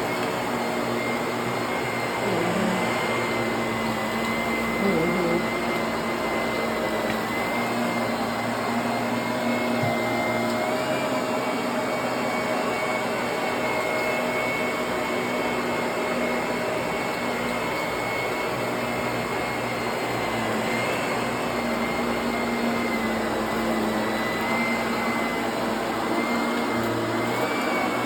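Vacuum cleaner running steadily: a continuous motor drone with a high whine. Its pitch dips and recovers slightly a few times.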